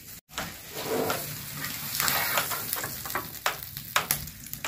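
Omelette sizzling on a hot iron tawa over a wood fire, as a steady hiss with a few short knocks.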